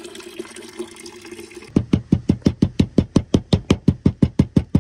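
A steady hiss like pouring or running liquid, then about two seconds in a fast, even knocking starts, about seven loud knocks a second.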